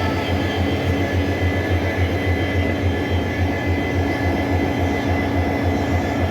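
A stationary train's engine running at idle: a steady loud drone with a low, even throb of about four pulses a second and a constant whine above it.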